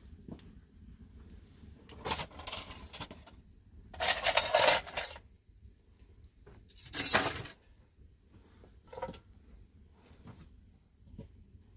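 Dishes and utensils clattering as they are handled, in three bursts; the loudest is about four seconds in, with a few faint clinks near the end.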